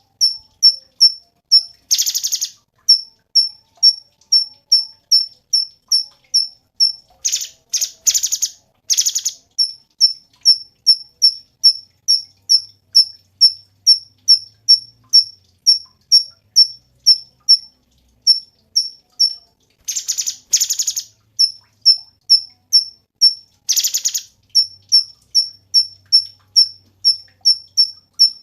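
Cucak cungkok song: a short, high chirp repeated about three times a second, broken four times by louder, buzzy rattling bursts, the longest a pair of rattles lasting about two seconds.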